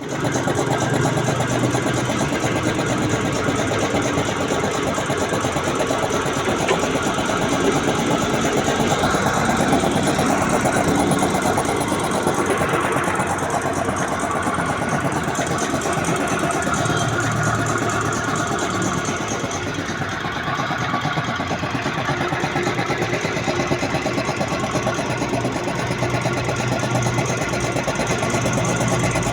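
1 hp piston air compressor running steadily, its pump beating fast and evenly.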